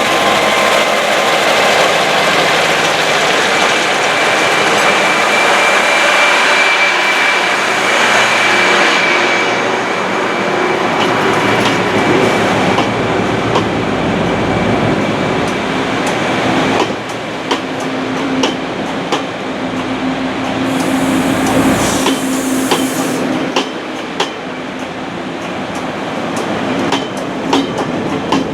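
Chu-Kuang express passenger train rolling along the rails: a steady rumble with a thin high squeal during the first half, then wheels clicking repeatedly over rail joints from about halfway on.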